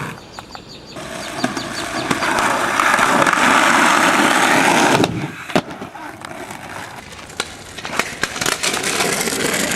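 Skateboard rolling on hard ground, with a loud steady rush of wheel noise for about four seconds, then sharp clacks and knocks of the board's tail and wheels hitting the ground.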